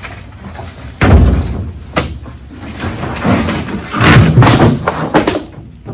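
A heavy thud about a second in, then a sharp knock and further thumps and noisy handling: heavy truck parts being moved and set down on a pickup truck.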